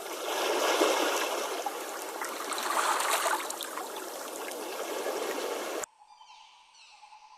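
Stream water running and trickling, cutting off suddenly near the end. It gives way to faint, repeated falling bird chirps over a steady hum.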